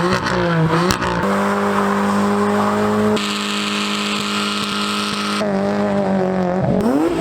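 A car engine held at high revs during a burnout, with tyres squealing through the middle stretch. Near the end the revs drop, then rise again.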